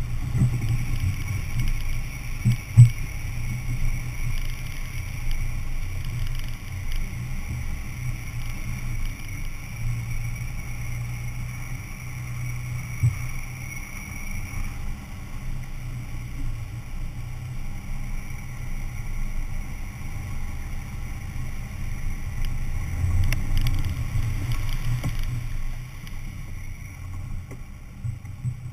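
A four-wheel-drive vehicle's engine running with a steady low drone while it drives a flooded road, with a couple of sharp knocks, the biggest about three seconds in.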